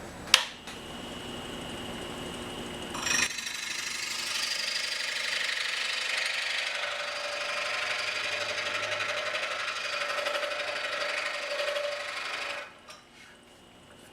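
A sharp click, then a scroll saw running; about three seconds in the blade bites into the thick oak block and the sound grows louder and busier with its fast reciprocating stroke. Near the end it stops cutting and drops off sharply.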